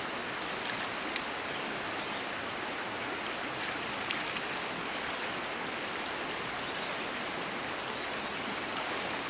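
Shallow river water rushing steadily over a riffle, with a few faint ticks about a second in and around four seconds in.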